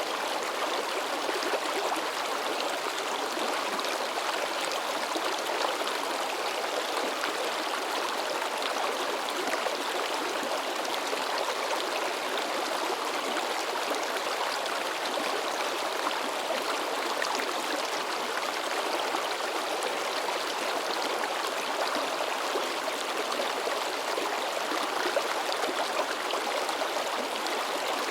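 A shallow river babbling and splashing over rocks, a steady rush of water.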